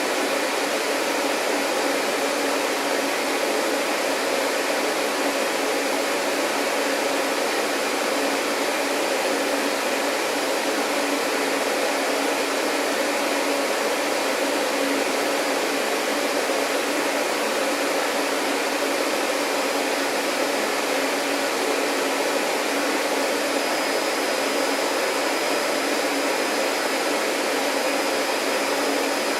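Vacuum cleaner running steadily: a constant whooshing rush with a motor hum under it. A thin high whine joins near the end.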